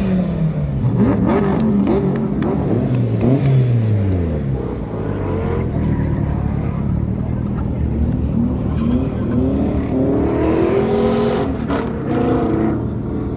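Car engine revving hard: its pitch falls away over the first few seconds, then climbs again and cuts off about twelve seconds in.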